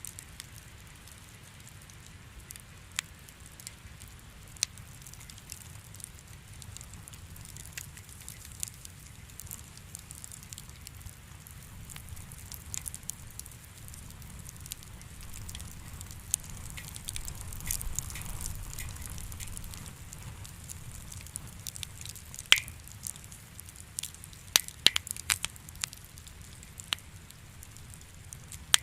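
Wood fire in a fireplace crackling, with irregular sharp pops over a faint low rumble; the crackle thickens past the middle, and the loudest pops come in a cluster near the end.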